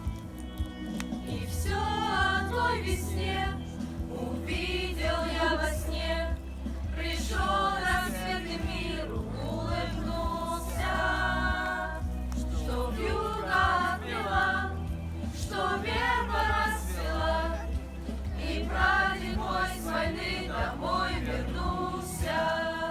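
A choir singing a song over a backing track with a steady bass line, in phrases of a second or two.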